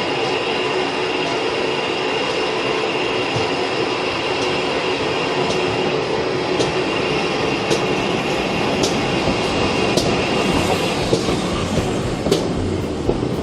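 A train running steadily on the rails, a continuous rumble with sharp clicks about once a second in the second half.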